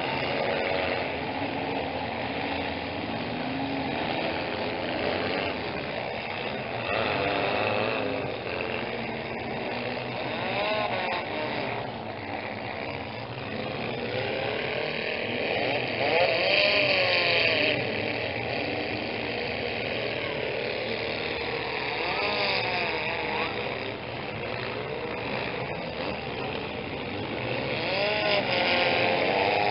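Several compact-car demolition derby engines revving and idling together, their pitch repeatedly rising and falling, over crowd chatter. The racket gets louder and brighter about halfway through.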